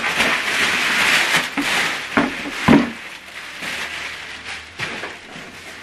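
Packaging rustling and scraping as a wireless subwoofer is unboxed by hand, with two sharp knocks a little over two seconds in, then quieter rubbing.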